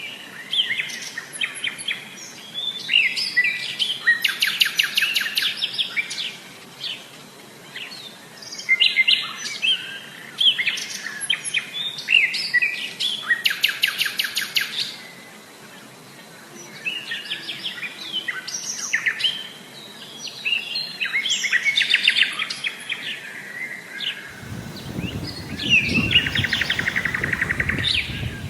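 Several birds singing and calling, with bursts of fast rapid trills among shorter chirps. A low rumble joins in for the last few seconds.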